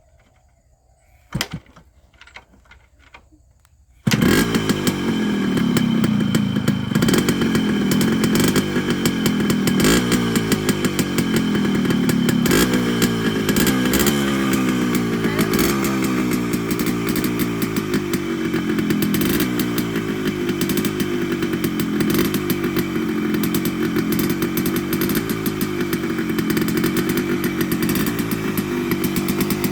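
Yamaha RX100's two-stroke single-cylinder engine catching on the kickstart after a couple of knocks, then running with the throttle blipped again and again, the revs jumping up and falling back about once a second.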